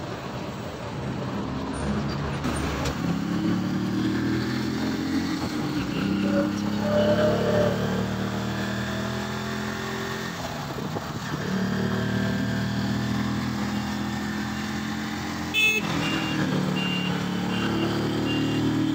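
Rusi Chariot 175 engine running on the road in traffic, its pitch climbing as it accelerates, dropping back, then climbing again. Near the end there is a brief click followed by a run of evenly spaced high beeps.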